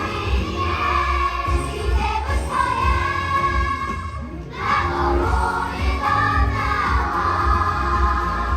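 A group of voices singing a musical-theatre song together, holding long notes, over a backing track with heavy bass.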